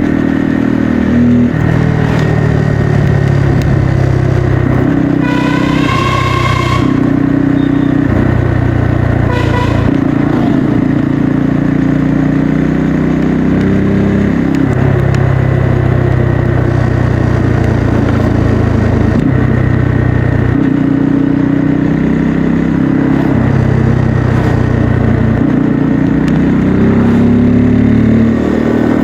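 Bajaj Pulsar N250's single-cylinder engine and exhaust under way, its pitch climbing and then dropping again at each gear change. A horn sounds once for over a second and then briefly a few seconds later.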